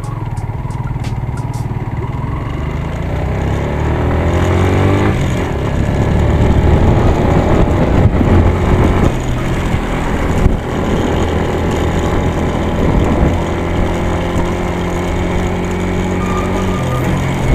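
Yamaha motorcycle engine running under way, its pitch climbing as it accelerates a few seconds in, then holding fairly steady at cruising speed.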